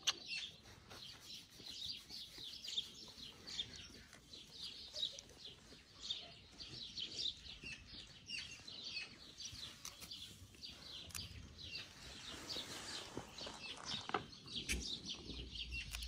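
Small birds chirping and twittering continuously in quick high notes, with a few sharp knocks mixed in.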